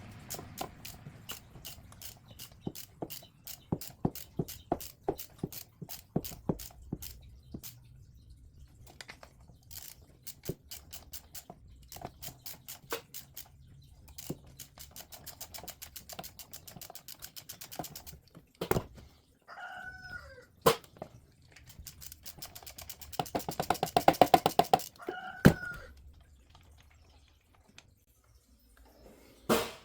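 Ratchet wrench clicking in quick runs as it turns a thread-repair tap down into the stripped spark plug hole of a Ford 5.4 Triton cylinder head. Two short squeaky, chirping sounds come in, about two-thirds of the way through and again near the end.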